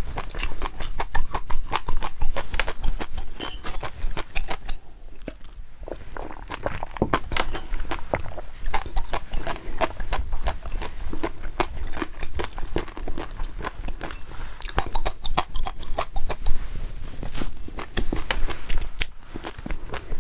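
Close-miked chewing: a dense run of small, moist clicks and smacks of a person eating, easing off briefly about five seconds in.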